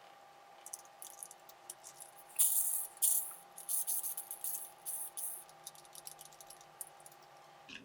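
Irregular bursts of rattling and clicking from small hard parts being handled or shaken, loudest a couple of seconds in and dying away near the end, over a faint steady hum.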